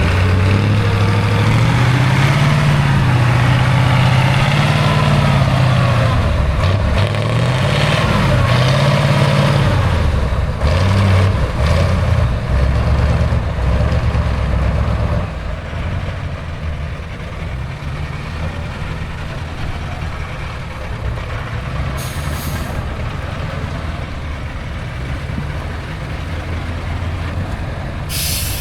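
Heavy off-road trial truck's diesel engine working hard, its pitch rising and falling for about fifteen seconds, then running quieter and steadier. Two short hisses come later, the second near the end.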